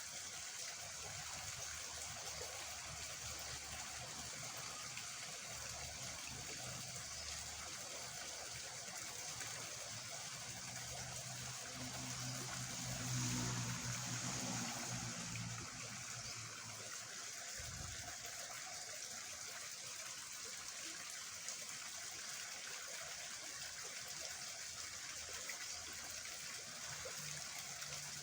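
Steady rushing of water in a small ditch running high and fast after a night of rain. About halfway through, a low hum swells for a few seconds, followed shortly by a brief low thump.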